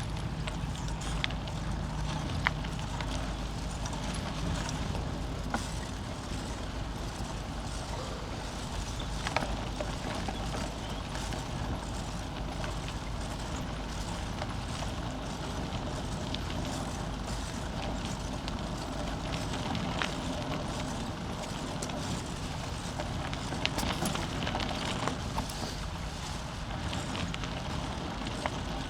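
Bicycle rolling over a rough trail: a steady tyre rumble with frequent short clicks and rattles from the bike.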